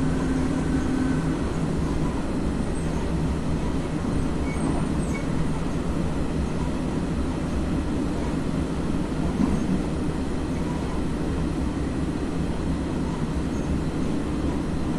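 Running noise inside an FS ALe642 electric railcar travelling along the line: a steady rumble of wheels on rails, with a low hum that weakens about a second in.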